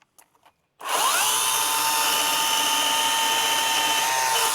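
Milwaukee M18 battery top-handle chainsaw starting up about a second in: a quick rising whine settles into a steady high whine as the motor and chain run at speed. A few faint clicks come just before it starts.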